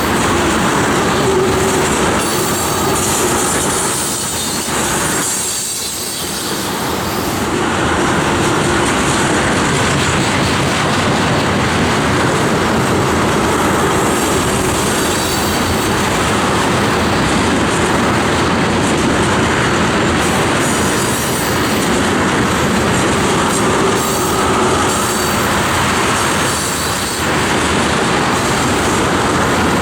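Freight train of ethanol tank cars rolling past: steel wheels clicking over the rail joints, with wheel squeal, in a steady continuous rumble that dips briefly about six seconds in.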